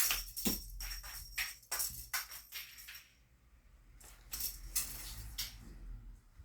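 Jingling of a cat's fishing-rod teaser toy being shaken in quick, irregular jerks, with a light ringing behind the clicks. It stops for about a second, then jingles again briefly.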